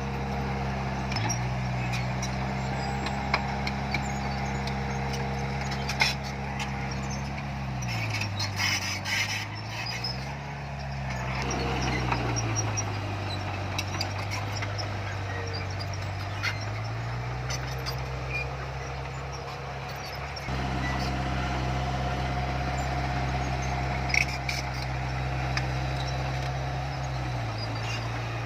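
Diesel engine of heavy earthmoving machinery running under load, its revs dropping and picking up again a few times, with scattered metallic clanks.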